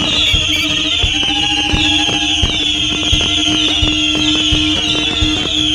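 Pyroland 1.4G consumer fireworks going off in a dense barrage: many overlapping high whistles, each sliding down in pitch, over a steady run of bangs and pops.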